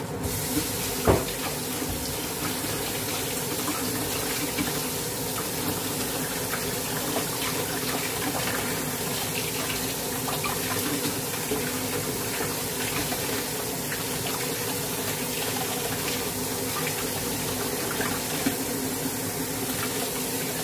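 Crushed garlic frying in olive oil in a wok: a steady sizzle flecked with fine crackles. A single sharp knock about a second in.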